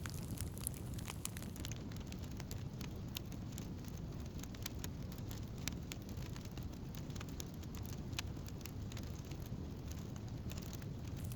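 Wood fire crackling, with frequent sharp little pops and snaps scattered irregularly over a low, steady rumble.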